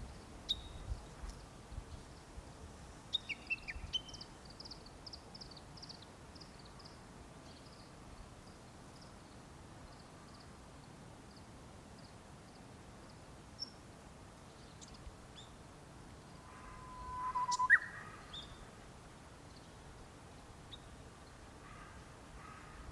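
Birds calling: a quick run of high chirps a few seconds in, scattered faint chirps after, and one louder call with a rising note about three quarters of the way through.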